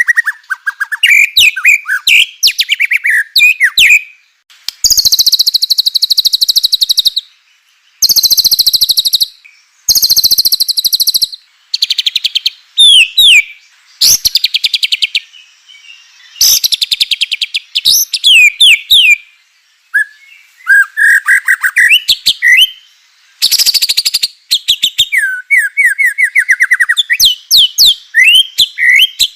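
White-rumped shama (murai batu) singing loudly in a string of phrases a second or two long with short pauses between: fast, rattling runs of rapidly repeated notes alternate with quick swooping whistled notes.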